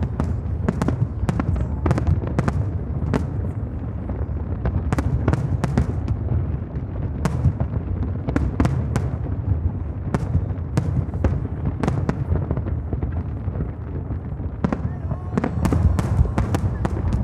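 Aerial fireworks going off in a dense, continuous barrage: deep booming bursts rolling into one another, with many sharp crackling reports scattered irregularly on top.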